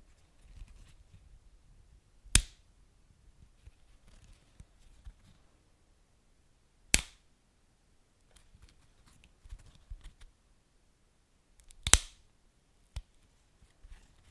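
Wood fire burning with a soft low rumble and light crackle, broken by three loud sharp pops of burning logs about two and a half seconds apart and a smaller pop near the end.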